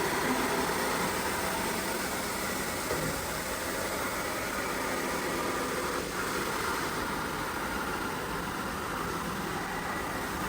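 Steady mechanical running noise, like a motor or machine running without a break, with one faint click about six seconds in.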